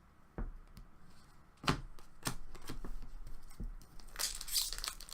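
A few light clicks of cards being handled, then, from about four seconds in, a card pack's foil wrapper being torn open and crinkled.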